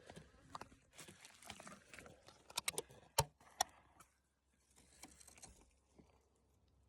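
Faint rustling and handling noise, with a few sharp clicks, like hard pieces knocking together, about two and a half to three and a half seconds in.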